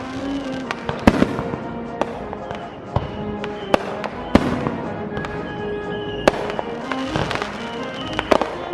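Fireworks bursting: a string of sharp bangs at irregular intervals, about nine in all, over music with held notes.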